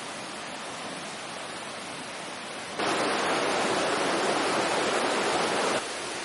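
Steady rain falling, an even hiss; about three seconds in it turns suddenly louder for some three seconds, then drops back just as suddenly.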